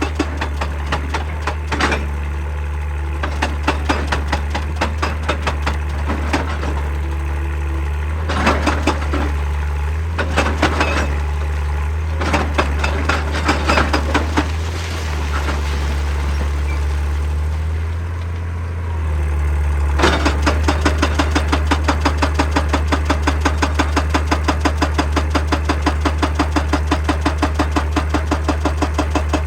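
Excavator's hydraulic rock breaker hammering rock in rapid, even blows over the steady hum of the diesel engine. It works in short spells at first, pauses with only the engine running, then hammers without a break from about two-thirds of the way in.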